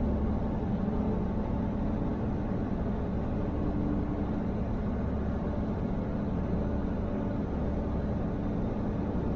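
Diesel truck engine running with a steady low rumble and hum.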